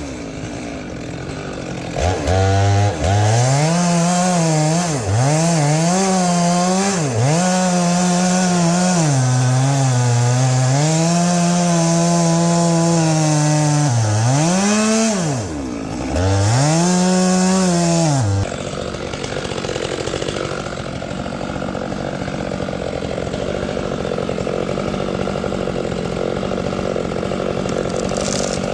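Stihl chainsaw cutting ironwood at high revs, its engine speed repeatedly dipping and recovering as the chain bites into the hard wood, with one deep drop about two-thirds in. Near the end it settles into a lower, steadier running sound.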